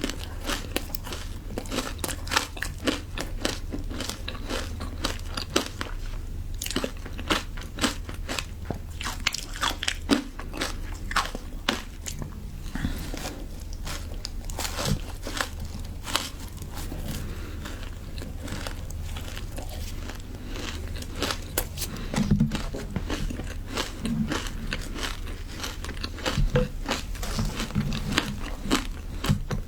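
Frozen matcha ice being bitten and chewed close to the microphone: a run of irregular sharp crunches, some louder than others.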